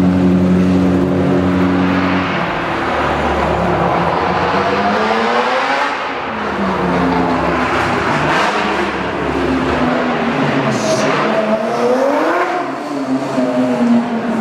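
Race car engine running at steady revs, then about two seconds in the pitch starts rising and falling repeatedly as it speeds up and eases off.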